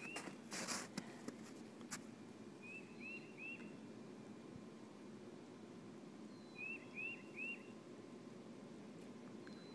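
A songbird singing short phrases of three quick, clear notes, repeated every three to four seconds, over a faint steady outdoor background. Just after the start there is a brief scratchy rush of wind or handling noise on the microphone, and a single click about two seconds in.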